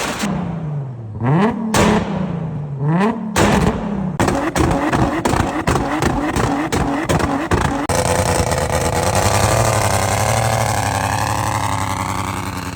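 Car engine revved in quick blips, with sharp pops from the exhaust, then a run of rapid crackling pops, before settling into a steadier drone with a wavering pitch.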